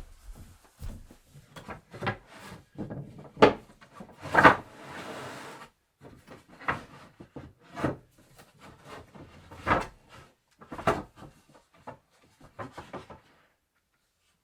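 Wooden bed parts being handled and fitted together: irregular wooden knocks and clatters, with a brief scrape of wood sliding on wood about four and a half seconds in. The sounds stop shortly before the end.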